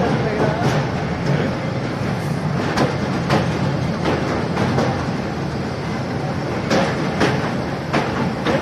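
Kangra Valley Railway narrow-gauge passenger coach running along the line, heard from an open window: a steady rumble of wheels on rail mixed with rushing air. Sharp clacks come every second or so, some in close pairs, as the wheels cross rail joints.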